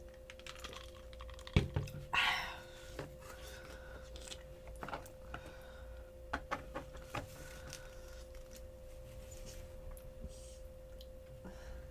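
Close-miked eating and drinking sounds: a sharp clack and a short sip about two seconds in, then scattered wet mouth clicks and crunches of chewing fried chicken. A faint steady hum sits underneath.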